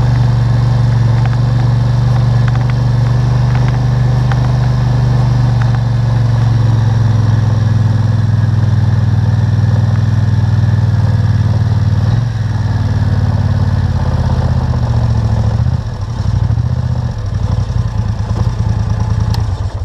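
ATV engine running steadily, heard close up from a GoPro clamped on the quad. It eases off slightly about twelve seconds in, turns uneven and choppy near the end, then cuts off abruptly.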